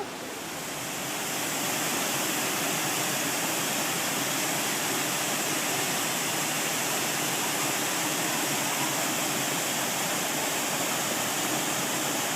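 Steady rush of water from a waterfall, growing louder over the first two seconds and then holding even.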